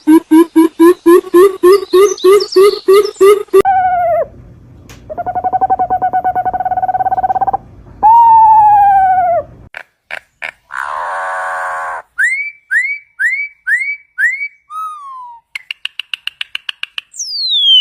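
A string of different bird calls, cut one after another. First comes a fast run of repeated low notes, then long falling whistles and trills, a short harsh call, a row of quick upswept notes and a tone, and finally a long falling whistle near the end.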